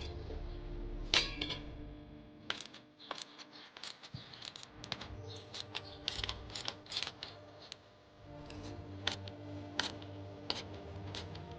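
Irregular sharp clicks and metallic clinks of hand tools working on a push mower's engine as it is unbolted, the loudest click about a second in.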